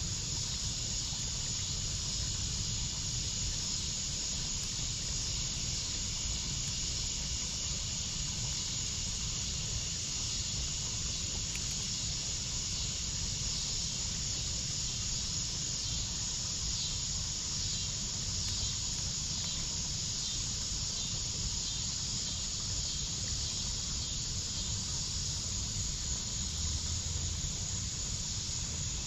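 Crickets and other insects chirping steadily in a high, even pulsing chorus over a low, steady rumble.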